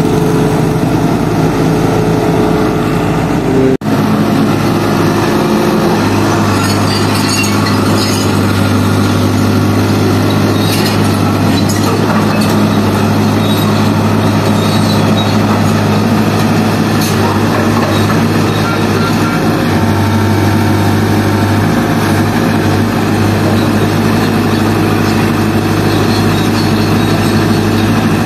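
Heavy road-works machine running steadily with a low diesel drone, with scattered clicks and knocks over it. The sound breaks off for an instant just under four seconds in.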